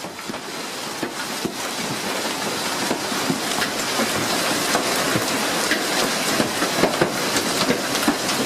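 Hailstones pelting down in a storm: a dense, steady clatter of many small impacts with heavier knocks among them, building up over the first couple of seconds.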